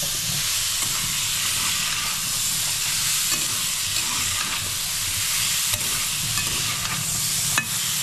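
Potato cubes with spices frying in a stainless steel kadai: a steady sizzle, with a spatula stirring them against the pan.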